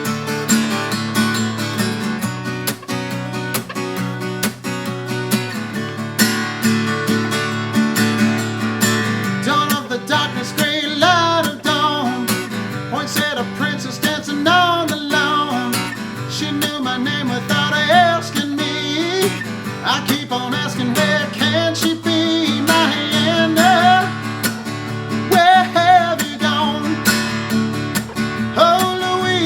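Acoustic guitar strummed in a country-folk song, with a melody line carried over it from about ten seconds in.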